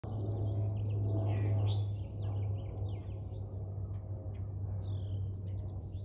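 Bird chirps and whistles, many short notes, some sliding up or down in pitch, over a steady low hum.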